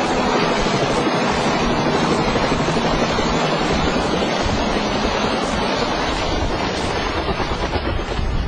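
Helicopter running: a loud, steady rushing noise.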